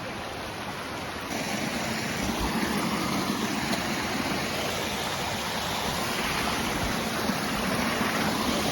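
Rushing water of a rain-swollen creek and waterfall, a steady rush that gets louder about a second in.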